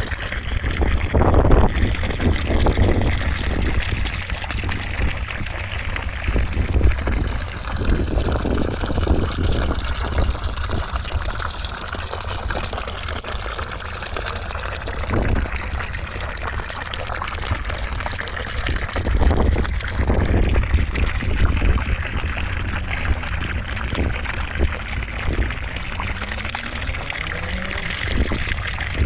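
Steady white noise: an even rushing hiss with a deep rumble underneath, holding level throughout.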